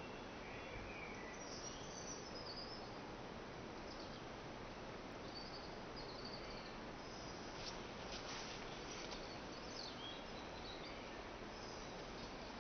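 Birds singing, scattered short chirps and calls over a faint steady background hiss.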